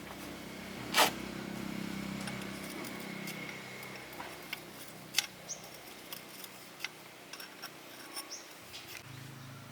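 Scattered light metallic clicks and taps of tools and parts being handled, with one louder knock about a second in, over a faint low hum that dies away over the first few seconds.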